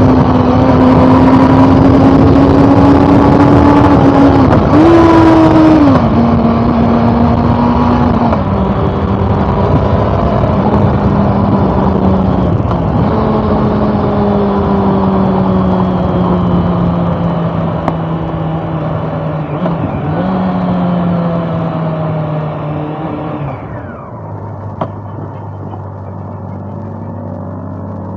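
Honda CB400 Super Four inline-four engine under way, its note stepping down through gear changes with short rev blips as the bike slows. It settles to a steady idle near the end as the rush of wind noise falls away.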